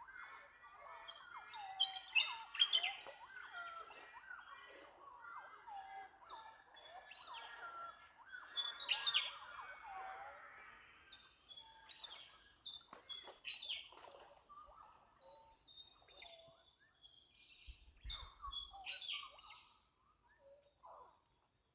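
Several small birds chirping and singing, with a busy mix of short whistled calls that thins out after about ten seconds.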